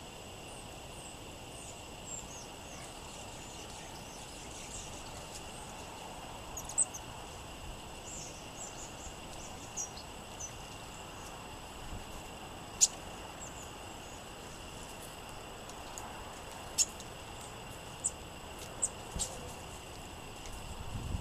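Small songbirds calling: scattered short, high chirps and sharp chip notes, about a dozen of them, over a steady high-pitched tone and a low rush of wind.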